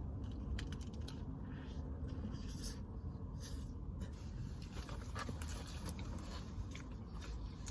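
Close-up chewing and mouth noises from eating a sandwich: small, irregular wet clicks and smacks over a steady low rumble.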